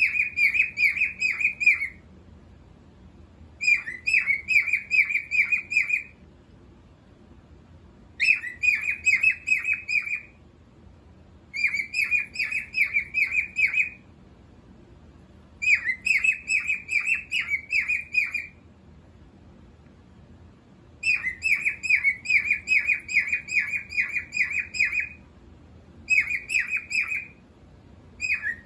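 Cockatiel singing: bouts of quick, repeated high chirping notes, about seven bouts of two to four seconds each with pauses of about two seconds between them.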